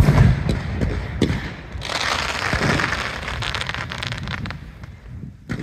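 Fireworks going off: a deep bang at the start and a few more sharp bangs, then a dense crackling of sparks for a couple of seconds that dies away, and another sharp bang near the end.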